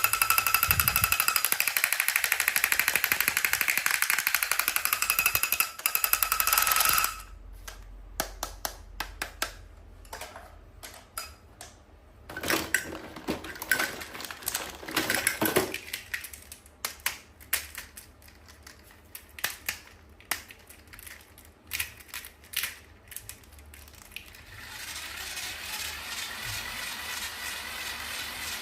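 A loud, rapid buzzing rattle for the first several seconds that cuts off suddenly, then scattered small clicks and taps of toys and packaging being handled, with a couple of louder rustling stretches and a steady hiss near the end.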